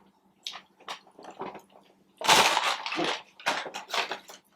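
Eating sounds: a few small mouth clicks, then from about two seconds in a run of loud crunching and chewing on a bite of crispy fried chicken sandwich.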